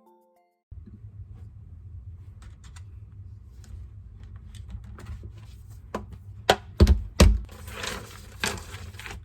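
Scattered light clicks and taps over a low steady hum, with a few louder thumps about six and a half to seven seconds in and a brief rustle near the end.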